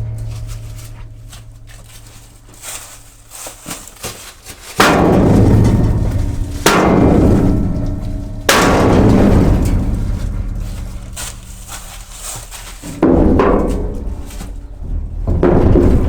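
Heavy hammer blows on the steel of a combine harvester, five hard strikes a few seconds apart, each ringing out and dying away, with a few lighter taps before them.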